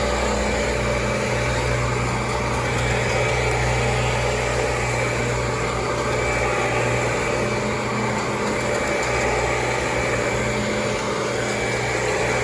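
Kirby G4 upright vacuum cleaner running steadily: a constant motor hum with a thin high whine on top and a low rumble that swells and fades as it is worked.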